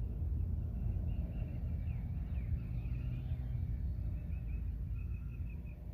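Storm ambience outdoors: a steady low rumble, with faint high chirping calls repeating about four or five times a second and a few short gliding chirps.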